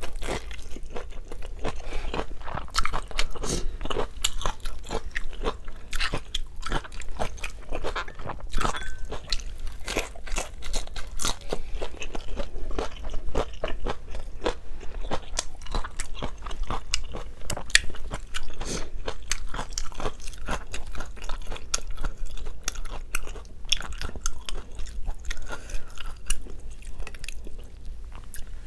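Close-miked crunching and chewing of a fried vegetable spring roll (lumpiang gulay), a dense, irregular run of sharp crunches with no pauses.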